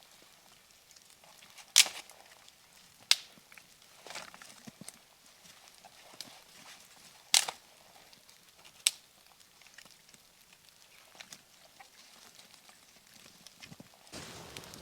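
Four loud, sharp knocks at irregular intervals, with a few fainter ticks between them, over a faint background; a steady rustling noise rises near the end.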